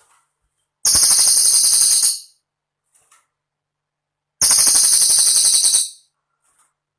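Cililin bird song: two rapid, very high-pitched trills of about a second and a half each, separated by a pause of about two seconds.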